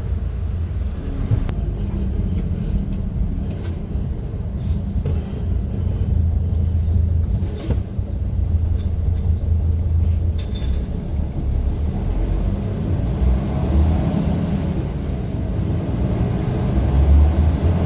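Steady low rumble of a moving vehicle, with a few brief high squeaks and clicks in the first few seconds and again about ten seconds in, the rumble swelling a little toward the end.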